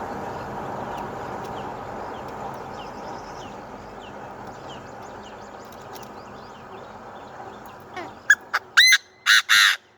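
Chinese francolin calling: a short run of loud, sharp notes in the last two seconds, over a steady background hiss that slowly fades. Faint high chirps repeat about twice a second before the calls.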